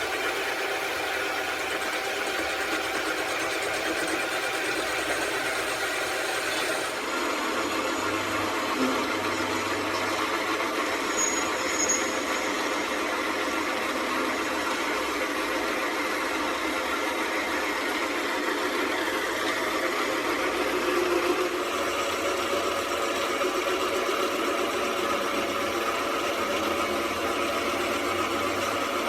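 An engine or machine running steadily, its sound changing abruptly twice.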